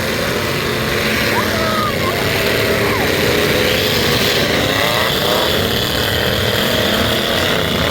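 Several trucks' engines in a demolition derby running hard at high throttle, their revs rising and falling as they drive and ram one another.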